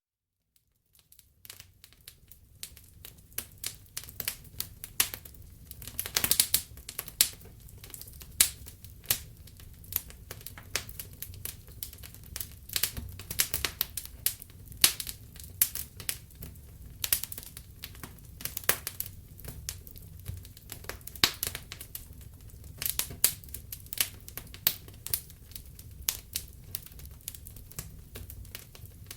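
Wood fire in a fireplace crackling, with irregular sharp snaps and pops over a low steady rumble of the flames. It fades in over the first second or two.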